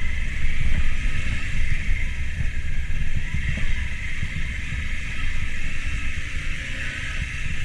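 Motorcycle running along a dirt road, with wind rumbling on the microphone and a steady high hiss over the engine.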